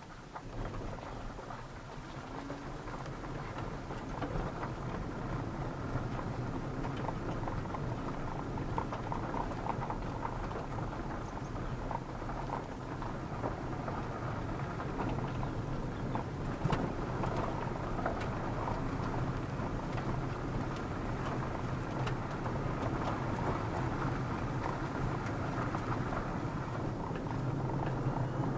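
A car being driven, with steady road and engine noise that slowly gets louder.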